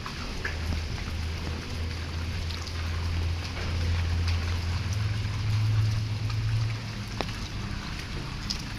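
Vehicle engine running on the move, its low hum rising in pitch about halfway through and dropping back near the end, with the hiss of light drizzle and scattered small ticks.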